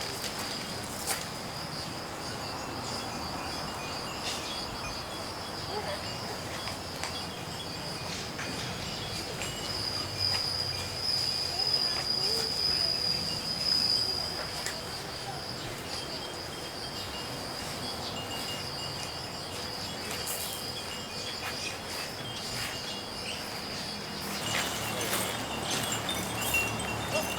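Insects trilling steadily at a high pitch, with Japanese furin wind chimes tinkling now and then and more often near the end.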